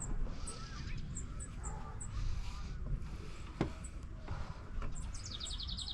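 Small birds chirping, short high chirps scattered throughout and a rapid trill near the end, over a steady low rumble.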